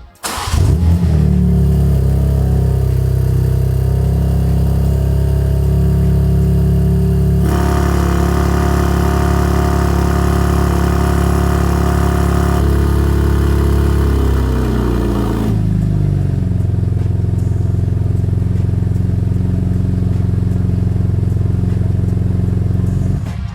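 BMW G82 M4's twin-turbo inline-six starting up through its aftermarket exhaust with the factory valve setup, then idling steadily. Around two-thirds of the way through, the idle speed drops and settles lower. The sound cuts off near the end.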